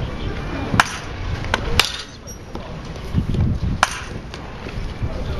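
Baseball bat striking balls in tee batting practice: three sharp cracks, the first two a second apart and the third two seconds later.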